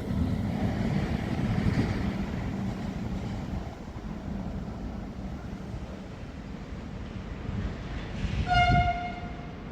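Rumble of a passing train fading away, then a single train horn blast of about a second near the end.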